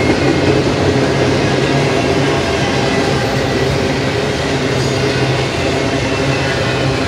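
Double-stack intermodal well cars rolling past at speed: a loud, steady rumble of steel wheels on rail.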